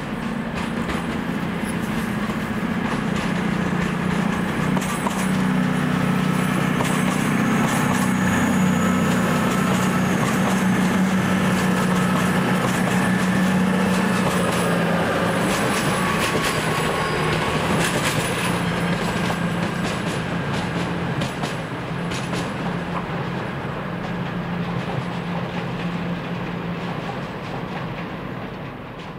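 A train running through the station: a steady low drone from its engine or motors swells to its loudest around the middle and eases off, with wheels clacking over rail joints.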